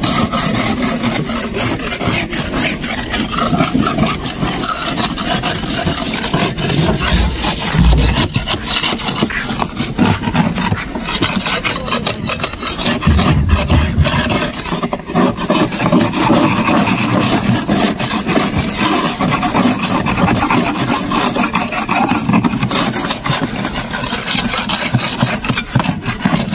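Continuous rough scraping and rasping strokes, as of a boat hull being scraped clean, with a couple of heavier low thumps about eight and thirteen seconds in.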